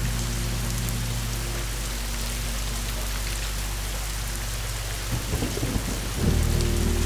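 Steady rain falling, with a roll of thunder crackling in about five seconds in and swelling into a low rumble near the end.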